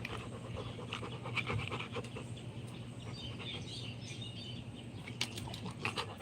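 A dog panting steadily, with faint bird chirps in the background.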